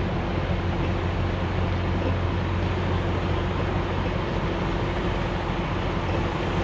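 Semi-truck running down the road: a steady low engine drone mixed with road noise, even throughout.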